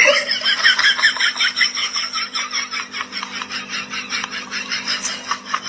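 A bird calling in a fast, even run of short high notes, about eight a second, over a faint steady hum.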